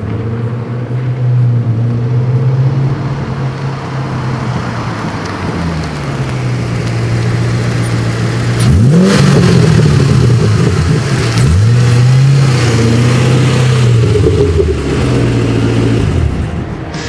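2008 Ford Mustang GT's 4.6-litre V8 running through a Borla Stinger S-Type axle-back exhaust with a Pypes X-pipe, held at steady revs for several seconds at a time. Past the middle the revs jump quickly twice, then settle and drop away near the end.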